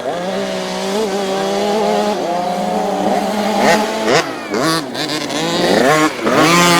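Several motocross bikes racing, engines revving up and backing off with quick throttle chops and gear changes, two sharp drops in revs partway through and near the end.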